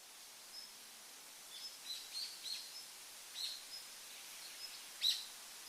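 Faint birds chirping: scattered short, high chirps over a light hiss, with one louder chirp about five seconds in.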